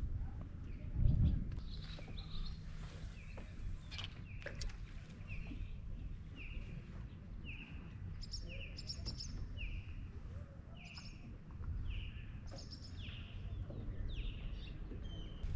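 A bird calling over and over, short notes about one every 0.7 seconds, over a low rumble, with a single thump about a second in.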